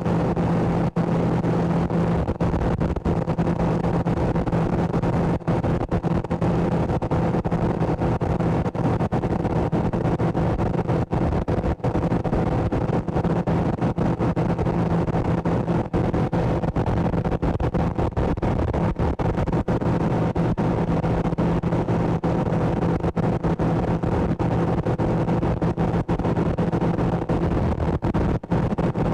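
A boat motor running at a steady, unchanging speed while underway, over a constant rushing noise.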